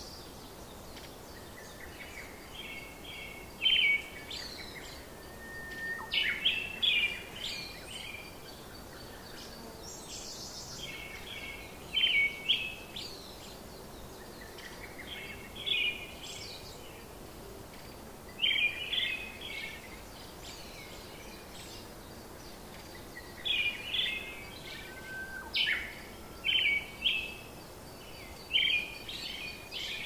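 Bird chirping in short phrases of quick notes every few seconds, over a steady background hiss.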